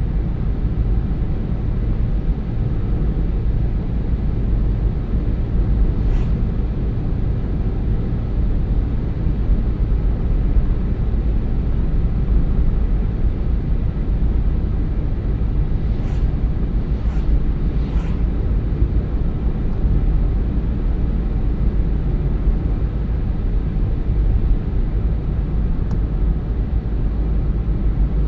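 Car driving along a road: a steady low rumble of engine and tyre noise, with a few faint clicks partway through.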